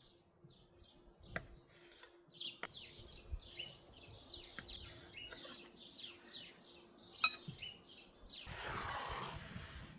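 Small songbirds chirping rapidly and repeatedly, with a few sharp clicks or knocks among them. Near the end comes a rushing, hissing noise lasting over a second.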